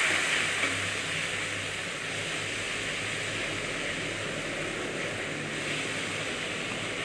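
Onion-and-spice masala frying in mustard oil in a metal kadhai: a steady sizzle that eases off over the first two seconds and then holds.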